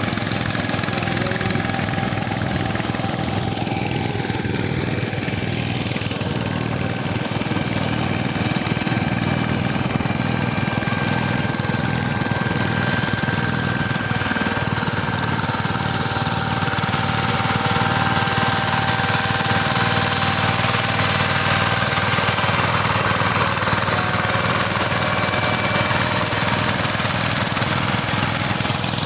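Farm tractor's diesel engine running steadily with a rapid, even low firing beat.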